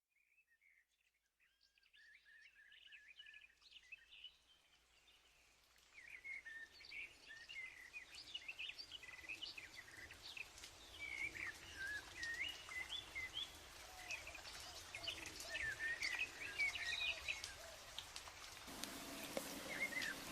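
Several birds chirping and singing in quick, warbling phrases. They are faint at first and become continuous and louder from about six seconds in.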